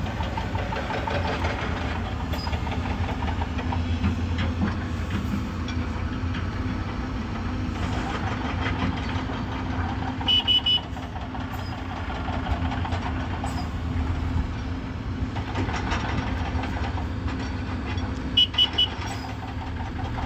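Heavy diesel engines running steadily as a truck reverses up to an excavator for loading. Twice, about ten and eighteen seconds in, comes a quick set of three short high-pitched horn beeps signalling the truck back.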